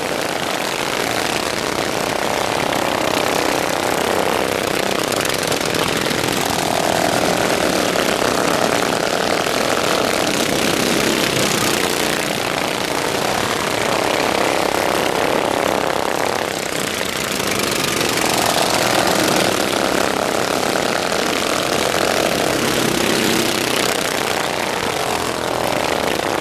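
Racing lawnmowers with stock single-cylinder overhead-valve engines running hard, a loud steady din of several engines. The engine pitch rises and falls every few seconds as the mowers pass.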